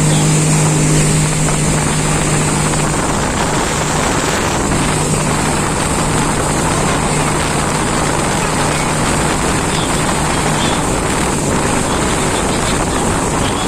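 Jet ski engine running with a steady hum over a continuous rush of wind and water noise; the hum fades under the rushing noise near the end.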